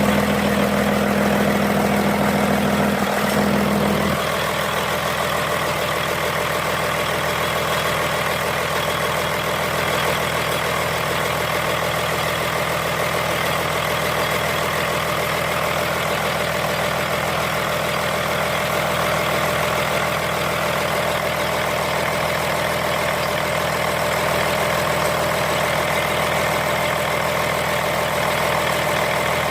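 Komatsu SA6D125 six-cylinder diesel engine running steadily on a test run. About four seconds in a strong low hum drops away and the sound gets a little quieter, then it runs on evenly.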